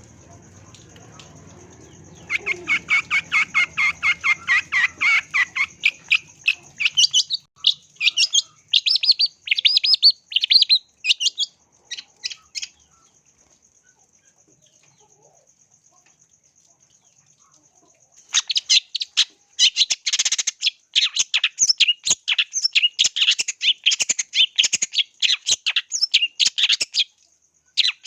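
Long-tailed shrike (cendet) singing in fast runs of sharp, high chirps. It stops for about five seconds midway, then resumes in a dense burst.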